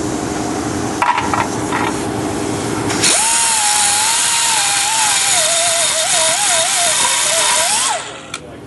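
A power tool grinding into sheet metal for about five seconds from about three seconds in: a loud hiss with a high whine that sags and wavers as it bites under load, then stops. A steady low hum runs before it.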